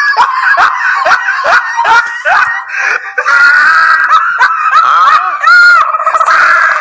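Loud, high-pitched screaming cries, squeaky and cartoon-like: about three short yelps a second at first, then longer drawn-out squeals, one rising and falling near the end.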